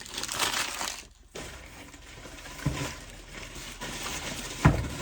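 Packing paper rustling and crumpling as wrapped stones are unwrapped by hand, with two dull knocks, about halfway through and near the end.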